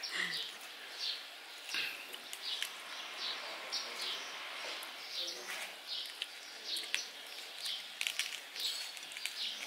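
A bird chirping over and over: short, high, falling chirps about twice a second. A few faint clicks come near the end.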